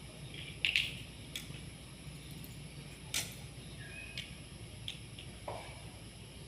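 A few sharp clicks and light taps, four or so spread across a few seconds, from small parts of a wall light switch being handled during a repair, over a steady low hum.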